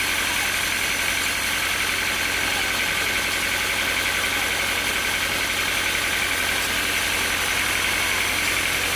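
Sawmill machinery running steadily: a constant low engine hum under a steady high whine, with no change in load.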